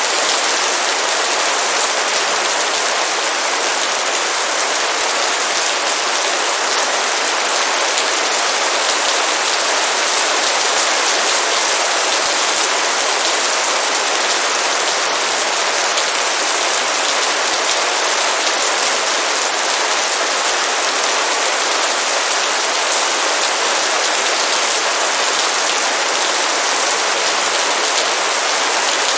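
Heavy rain falling in a steady downpour: a dense, even hiss of countless drops striking a surface, with no letup.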